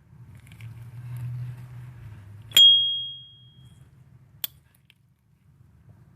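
S.T. Dupont lighter lid flicked open with its high, clear 'ping' that rings on one note and fades over about a second, followed about two seconds later by a single sharp metallic click.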